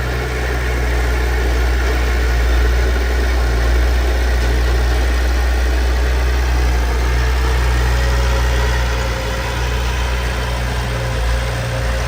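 Heavy diesel engine of earthmoving machinery running steadily at low revs, a deep, even hum with no change in speed. About halfway through, a faint steady whine joins it.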